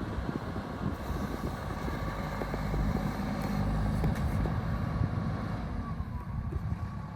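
Wind buffeting the microphone over a heavy engine running, swelling a little in the middle and easing off near the end.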